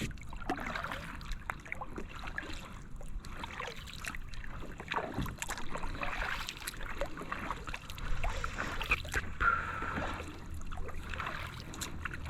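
Kayak paddle dipping into and pulling through calm water, with irregular small splashes and drips from the blades.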